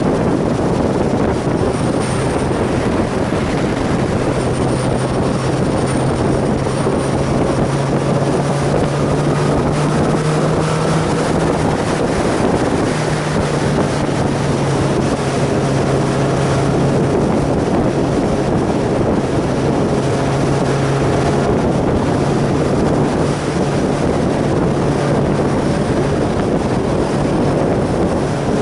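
Sport motorcycle engine running at a steady cruising speed, with heavy wind rush on the microphone.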